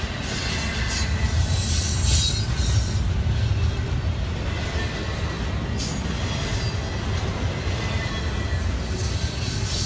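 Double-stack intermodal freight train's well cars rolling past close by: a continuous low rumble of steel wheels on the rails, with brief high scraping streaks now and then.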